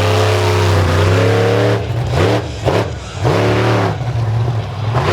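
Monster truck engine running hard at high revs, then blipped up and down several times in quick succession about two seconds in before holding steady again.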